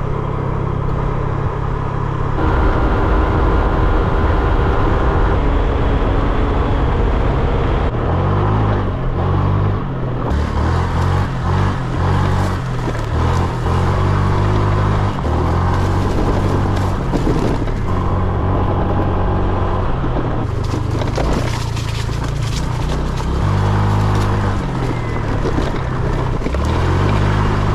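Honda Click 125cc scooter's single-cylinder engine running while riding along, its pitch rising and falling over and over, with a steady rush of road and wind noise.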